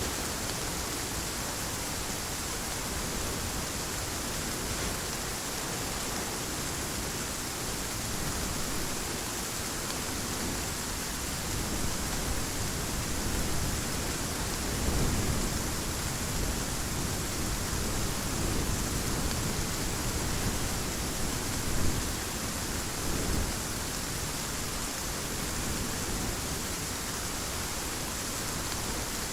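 Heavy rain falling as a steady, even hiss, with low thunder rumbling a few times around the middle.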